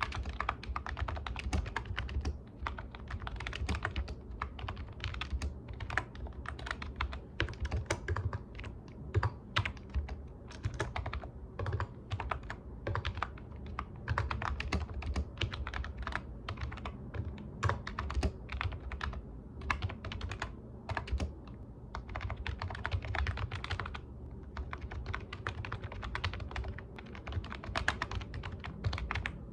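Computer keyboard being typed on steadily, quick irregular key clicks in runs with brief pauses between words and phrases.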